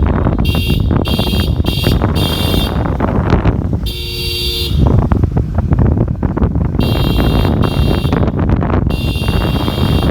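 Road traffic noise with vehicle horns honking in repeated short blasts: a quick run of toots in the first few seconds, one in the middle and several more near the end.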